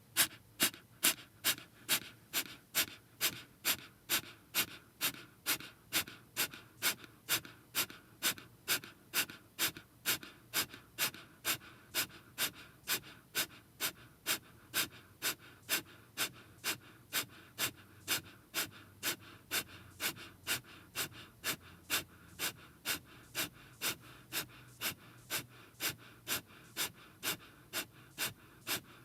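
Kapalabhati (skull shining) breathing: a steady run of sharp, forceful exhales through the nose, about two a second.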